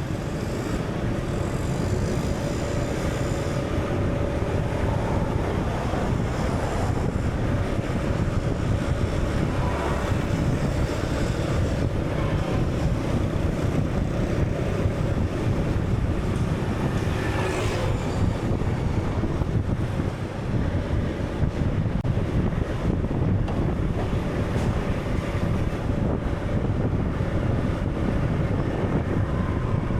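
Steady, deep rushing noise of wind and rough water, with a faint held tone underneath.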